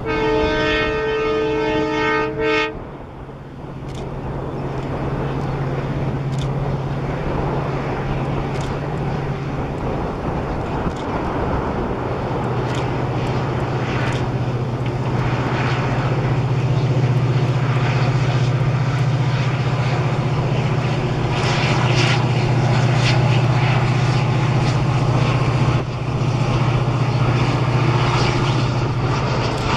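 WDP4D diesel-electric locomotive sounding its multi-tone horn for about two and a half seconds, then the steady low drone of its EMD two-stroke diesel engine as the passenger train runs past. The drone and the rolling noise of the coaches grow louder about twelve seconds in, with the clicking of wheels over rail joints.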